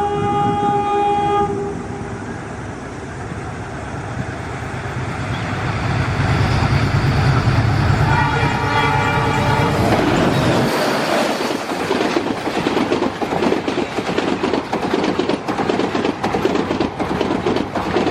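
Express train passing at speed. The locomotive's horn sounds at the start and again about eight seconds in, while the locomotive's rumble builds as it approaches. From about ten seconds in the coaches rush past with a fast, even clatter of wheels over the rail joints.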